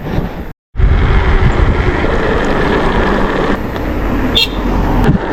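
Steady road noise of riding along a road, a dense rumble and rush with heavy low-end. It cuts out completely for a moment about half a second in.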